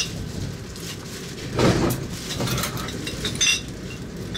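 Passenger train's steady running rumble heard from inside the carriage, with a couple of short knocks, the louder one about a second and a half in.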